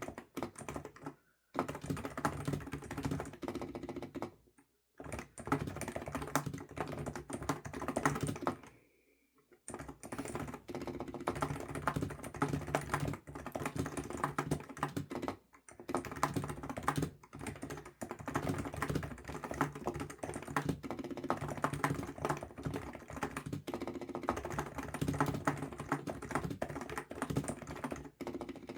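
Fast typing on a computer keyboard: a dense run of key clicks with a few short pauses.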